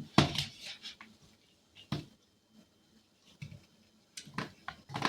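Light taps and clatter of kitchen handling in a pan: sugar-dusted cranberries and a utensil knocking about as they are stirred and turned, in short irregular clicks with a few louder knocks.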